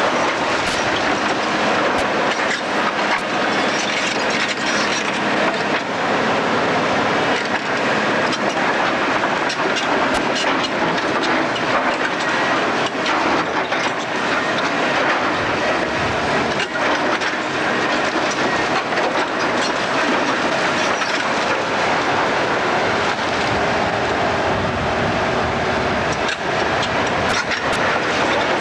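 Demolition machinery breaking up a building: a steady mechanical rumble with frequent cracks and clatter of breaking concrete and falling debris.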